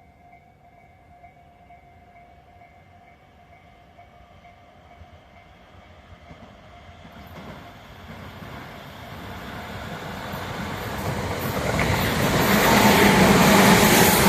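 Tobu Tojo Line electric train approaching, its running noise growing steadily louder over the second half and loudest near the end as it draws level.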